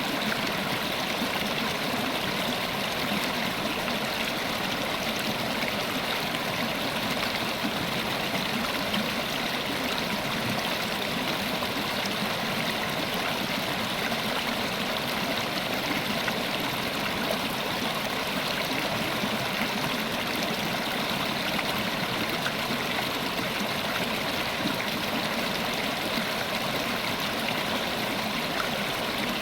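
River water flowing and burbling over stones: a steady, even rush.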